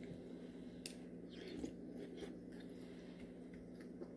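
Quiet chewing of a spoonful of beef soup with meat and vegetables, with small wet mouth clicks now and then.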